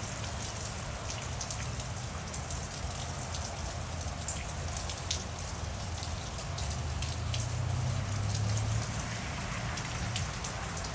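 Steady rain falling, with many separate drop ticks heard over the hiss, and a low rumble underneath that grows louder about eight seconds in.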